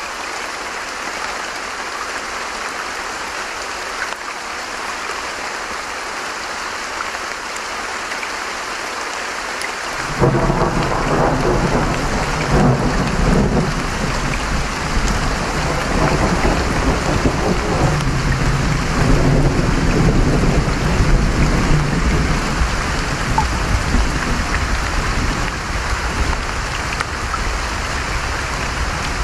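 Steady rushing of a creek with rain. About ten seconds in, a roll of thunder breaks in and rumbles for around a dozen seconds before fading back under the water.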